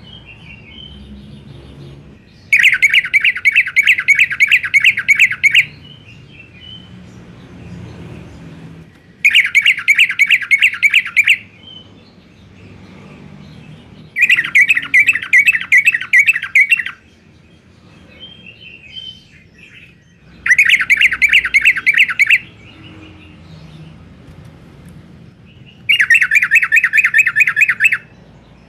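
Sooty-headed bulbul (trucuk) singing in the 'garuda' style: five loud bursts of fast, evenly repeated notes, each lasting two to three seconds, with pauses of a few seconds between them.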